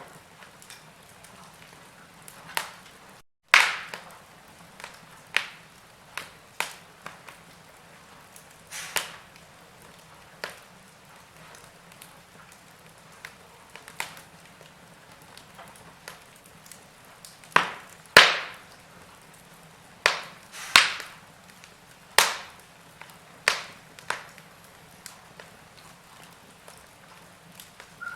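Wood fire crackling: irregular sharp pops and snaps from burning logs, a dozen or so louder ones among many small ticks, over a faint steady hiss. The sound cuts out completely for a moment about three seconds in.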